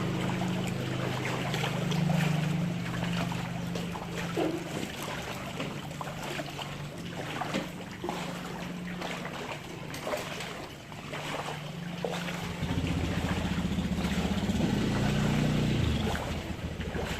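A vehicle engine running steadily through floodwater, with water sloshing and splashing. About three-quarters of the way through, a deeper, louder engine rumble comes in.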